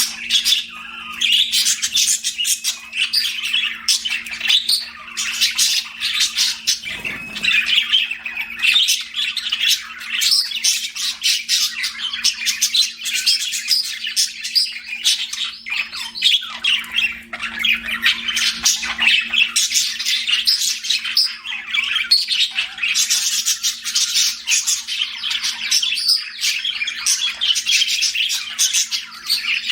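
Budgies chattering: a continuous run of rapid chirps and squawks with no pause.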